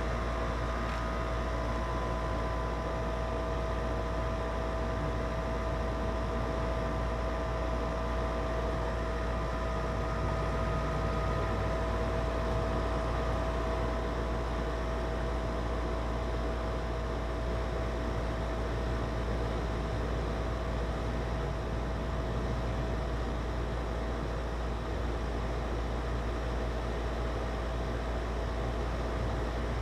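Goodman 4-ton R-410A air-conditioning condensing unit running steadily, compressor hum and condenser fan air noise with a steady whine, while the system is being charged with refrigerant. A higher whine fades out about twelve seconds in.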